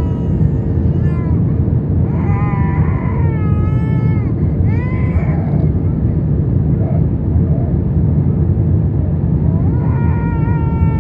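Steady cabin rumble of an Airbus A321 on approach, engine and airflow noise with a constant hum. Over it, a baby's high-pitched wavering cries of about a second each, a few in the first half and again near the end.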